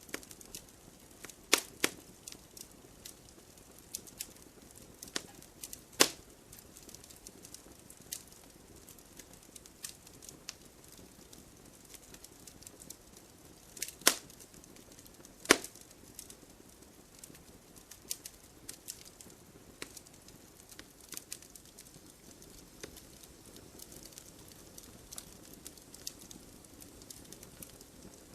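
Burning firewood crackling: irregular sharp pops and ticks over a soft hiss, with a few much louder snaps, two of them close together near the middle.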